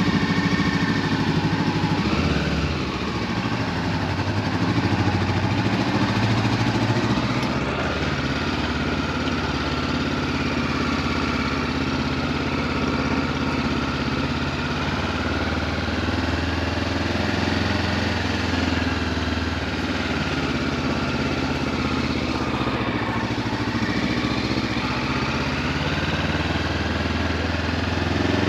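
Honda CB500F's parallel-twin engine with an Akrapovic exhaust running at low, fairly steady revs, its pitch rising and falling gently.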